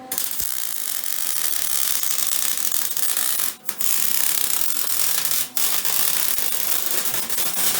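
Wire-feed welder arc crackling steadily as a bead is laid on a steel ATV frame. It starts suddenly and breaks off twice, briefly, about three and a half and five and a half seconds in.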